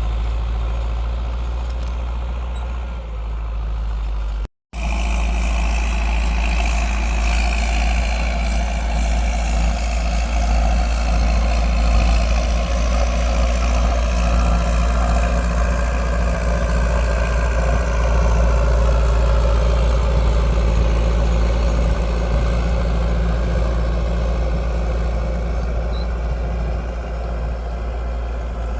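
Landini 9080 tractor's diesel engine running steadily under load while pulling a plough, broken once by a split-second dropout about four and a half seconds in.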